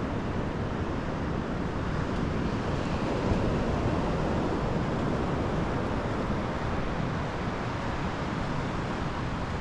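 Ocean surf washing onto the beach, with wind on the microphone: a steady rush that swells a little a few seconds in.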